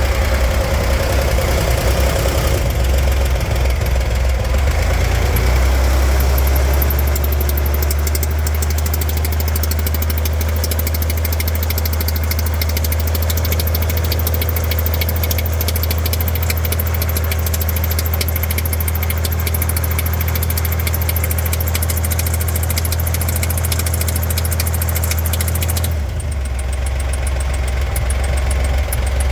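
Chevrolet Corvair's air-cooled flat-six engine running with the throttle held open, with a rapid, even chattering over the engine note. This is the car's mystery chattering/hammering noise, whose cause is not yet known. About 26 s in, the engine note drops and changes.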